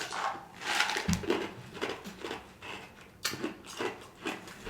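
A person chewing food close to the microphone: irregular wet clicks and crackles of mouth and chewing sounds, with a couple of soft low knocks.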